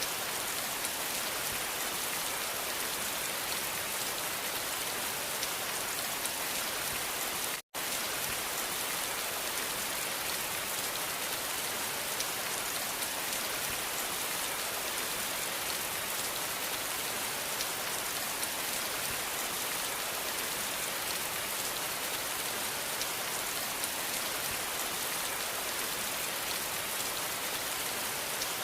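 Steady, heavy rain falling, a dense even patter of drops. The sound cuts out completely for a split second about eight seconds in, then carries on unchanged.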